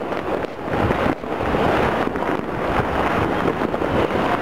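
The continuous din of many distant firecrackers and fireworks going off across a city at once, blending into a steady crackling rumble.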